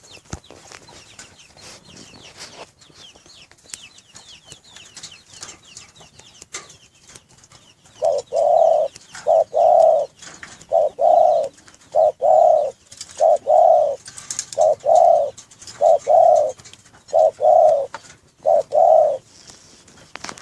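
Spotted dove (derkuku) cooing: after a quiet start, a run of about ten loud, evenly spaced coos about a second apart.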